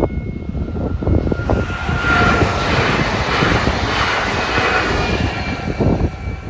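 A PESA Elf EN76 electric multiple unit passing at speed over a level crossing: a rush of wheel and air noise that builds to its peak about two to five seconds in and falls away near the end.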